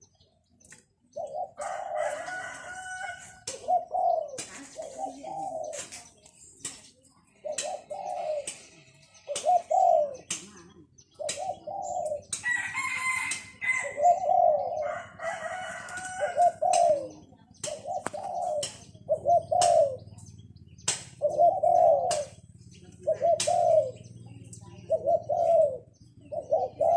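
Caged decoy doves cooing, two birds calling in turn with short arching coos, roughly one a second. Higher chirps come in around the middle.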